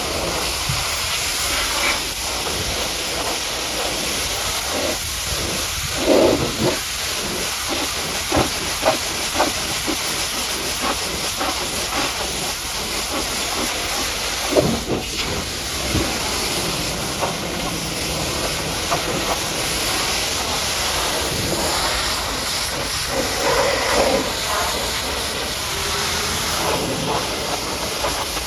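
High-pressure washer jet spraying water onto a heavily mud-caked truck: a steady hiss, broken by scattered short knocks and splatters.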